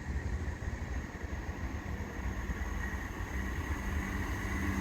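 Rails hissing ahead of an approaching Class 170 Turbostar diesel multiple unit. Under the hiss is a low engine hum and rumble that grows steadily louder as the train nears.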